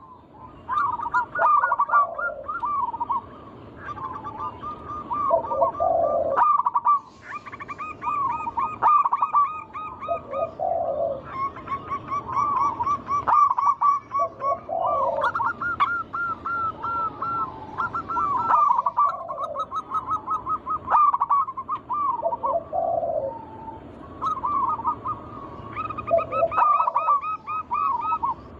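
Zebra doves (perkutut) cooing continuously, with several birds' rolling, repeated coo phrases overlapping one another and pausing only briefly a few times.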